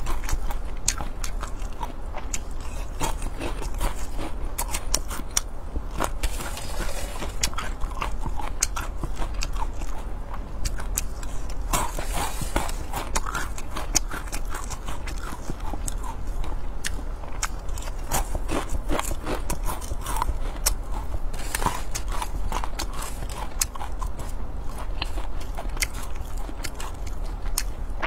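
A person chewing and biting fried silkworm pupae close to a clip-on microphone: a dense, uneven run of sharp crunches and crackles.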